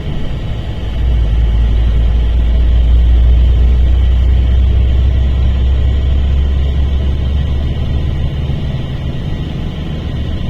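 Mercedes-Benz O-500RSD bus's diesel engine running with a loud, low drone that grows louder about a second in, then eases slightly near the end.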